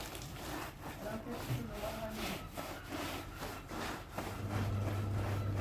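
Repeated rubbing strokes, roughly two a second. A steady low hum comes in near the end.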